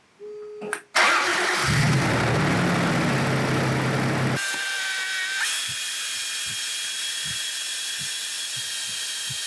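Toyota 3VZ-E 3.0 V6 engine coming in abruptly about a second in and running fast with a deep note, held at about 2,500 rpm for a fuel-trim check. From about four seconds in the deep note drops away, leaving a steady hiss with a thin high whine.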